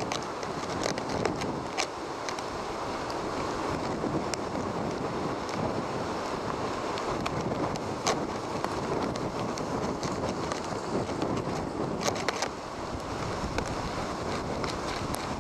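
Heavy hurricane-driven surf washing steadily while strong wind blows across the microphone, with scattered short sharp clicks.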